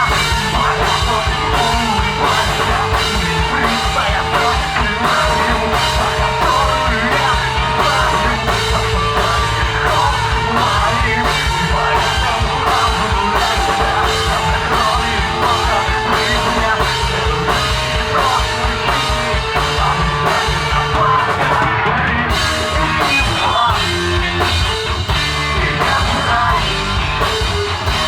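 Alternative rock band playing live, with a fast, steady drum beat under guitars and a sung, partly shouted vocal.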